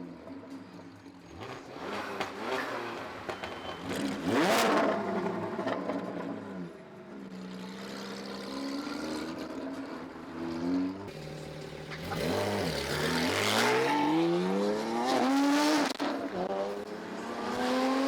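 Porsche 718 Cayman GT4's naturally aspirated flat-six with a full titanium JCR exhaust, accelerating hard: the pitch sweeps up loudly about four seconds in and again from about twelve to sixteen seconds, with lower, easier running between.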